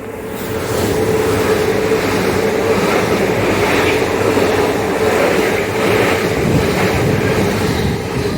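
Two coupled Class 800 IET trains passing through the station without stopping: a loud, steady rush of wheel and air noise with a steady hum, building over the first second.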